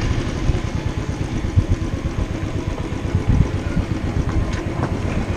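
Royal Enfield motorcycle engine running at low revs: an uneven low thudding with a couple of louder thumps.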